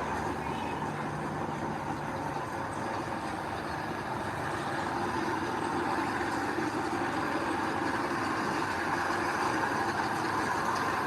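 Heavy diesel earthmoving machinery running steadily, an even engine noise with no distinct knocks or revs.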